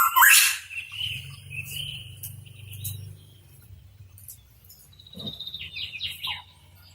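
Pitohui calling: a loud harsh call right at the start, then a wavering note that fades, and about five seconds in a quieter run of short chirps dropping in pitch.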